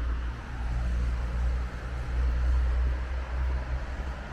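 Outdoor ambience: a steady low rumble with a soft hiss over it, dipping briefly a couple of times.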